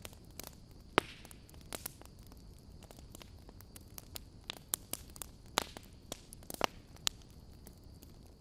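Wood burning in a campfire, crackling with irregular sharp pops, the loudest about a second in and a flurry between about four and seven seconds, over a steady low hiss of the fire.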